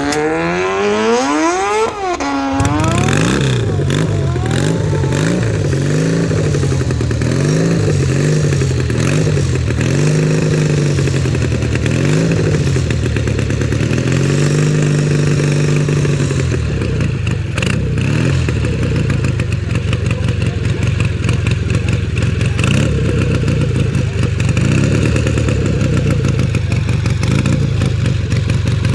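650cc 1956 Triumph parallel-twin motorcycle engine. Over the first two seconds an engine climbs steadily in pitch, then breaks off. The Triumph's throttle is then blipped up and down about once a second for a dozen seconds before it settles into steadier running.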